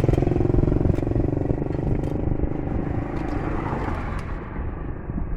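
A motor vehicle's engine running, growing steadily fainter over the few seconds.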